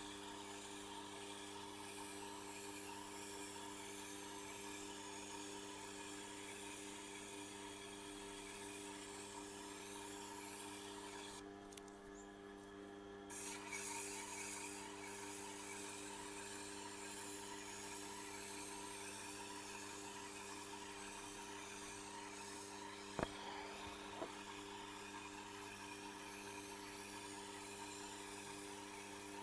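Knife steel rubbing steadily against an abrasive as the blade is deburred, over the steady hum of a Tormek sharpening machine's motor. Two sharp clicks about a second apart come in the later part.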